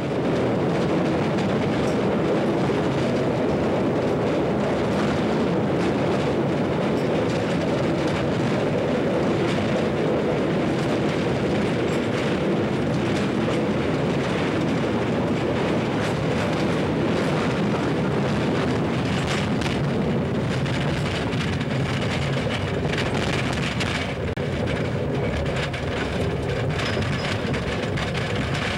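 Narrow-gauge mine trolley train running through a tunnel: a steady rumble of wheels on rail, closed in by the tunnel walls, with rail-joint clicks through it. It eases slightly near the end as the train comes out of the tunnel.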